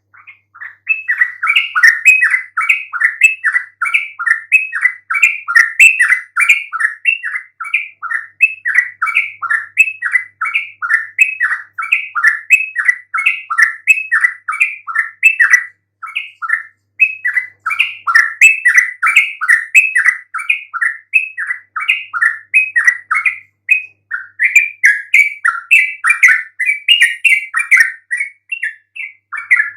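Yellow-vented bulbul (trucukan) song: an unbroken string of short, bubbly chattering notes, about three a second, pausing only briefly a couple of times, played as a master call to provoke other trucukan into answering.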